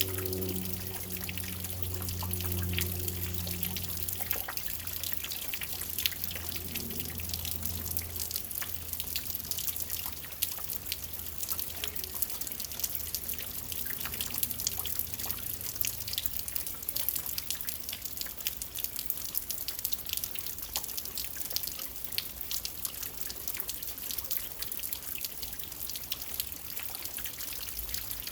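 Rain falling at night, with many separate drop hits ticking over a steady hiss of water. A low hum sounds under it at the start and fades away within the first third.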